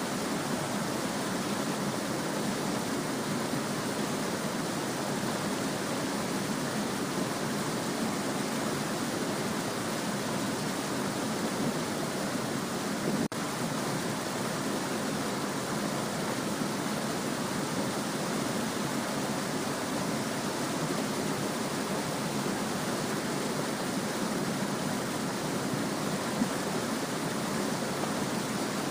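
Small stream babbling steadily, an even rush of flowing water with no other sounds. There is a momentary drop-out about thirteen seconds in.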